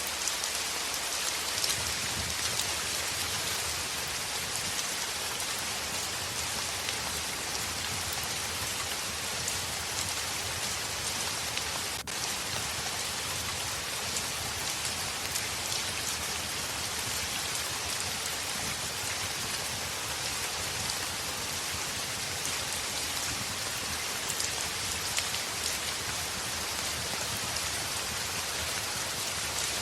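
Heavy rain on a window: a steady, even hiss of rain with scattered light ticks of drops.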